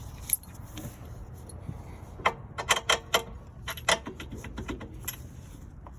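Irregular sharp metallic clicks and clinks of hand tools and mounting hardware as a truck shock absorber's bolt is worked into place. A quick run of them comes about two to three seconds in.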